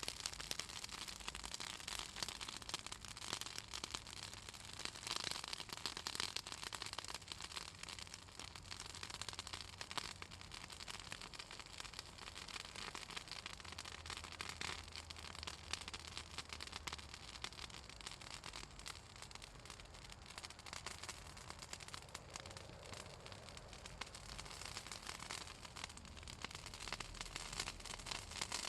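Bonfire of pruned southern magnolia branches crackling and popping with a dense run of small snaps; the oil in the wood makes it crackle.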